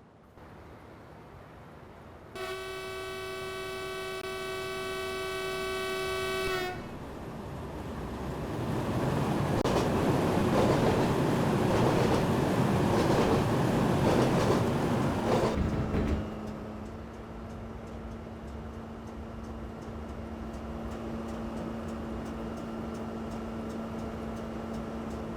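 Train horn sounding one long blast of about four seconds, heard from inside the locomotive cab. Then the train's running noise swells, with some rail clatter, and settles into steadier, quieter running with a low steady hum.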